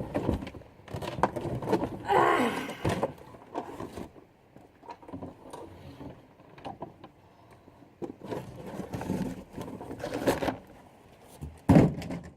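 Handles of a Troy-Bilt push mower being handled and fitted: scattered knocks, clunks and scrapes, with one loud thump near the end.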